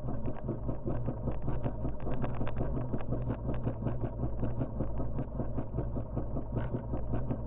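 Enduro dirt bike engine idling steadily with a rapid, even ticking pulse.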